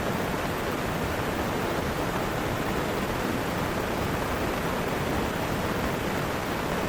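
Steady, unbroken wash of heavy rain and rushing river water, with no separate drops or other events standing out.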